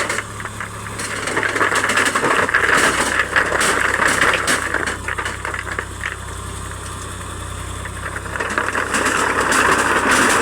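Swaraj tractor's diesel engine running with a metallic rattle, getting louder about a second in and again near the end.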